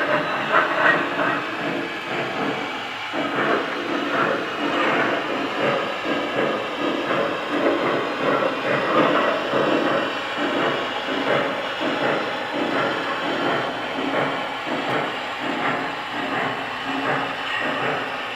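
Lionel Vision Line Big Boy 4000 model steam locomotive running, its sound system giving a steady rhythmic chuffing with steam hiss.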